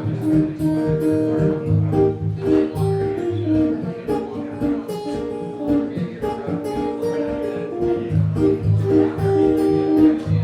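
Acoustic guitar playing a plucked instrumental introduction to a folk song, with a steady rhythm and low bass notes under the melody.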